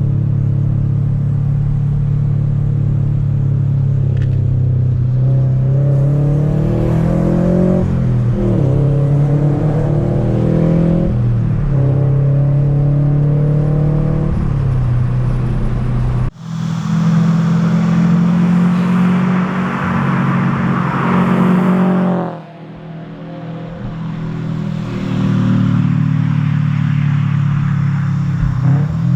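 Scion FR-S's FA20 flat-four with an ISR cat-back exhaust and Tomei catless headers, driving under load. The engine note rises and falls several times as it revs up and shifts. It breaks off abruptly about halfway through, runs louder with more road noise until a sudden drop in level, then builds again.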